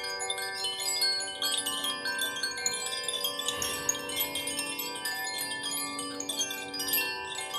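Chimes ringing continuously, many overlapping metallic tones with light strikes coming every moment and sustained notes hanging beneath them.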